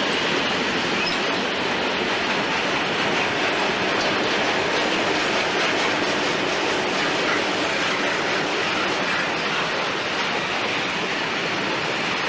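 Freight train's goods wagons rolling past at speed: a steady, even rush of wheels on the rails.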